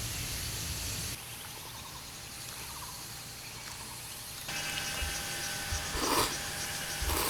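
Forest outdoor ambience: a steady high hiss of insects with faint chirps, changing abruptly twice, with a few brief voice-like sounds near the end.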